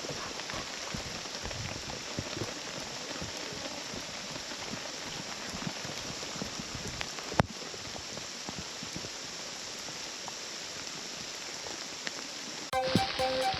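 Heavy rain falling steadily, with a single sharp knock about seven seconds in. Music starts just before the end.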